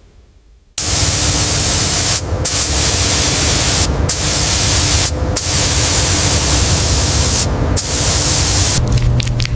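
High-pressure spray hissing loudly, starting about a second in and cut off briefly four times as the trigger is released, with a faint steady hum beneath, as in blasting mud and rust off old metal.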